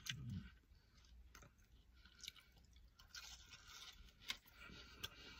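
Faint chewing of a breaded fried mozzarella cheese stick, with a few soft mouth clicks.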